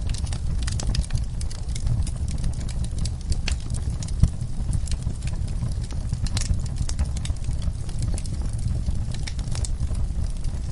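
Wood fire crackling, with irregular sharp pops and snaps, over a steady low hum.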